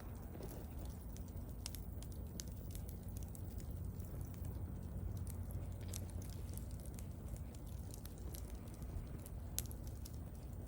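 Wood bonfire burning, with scattered small crackles and pops over a steady low rumble.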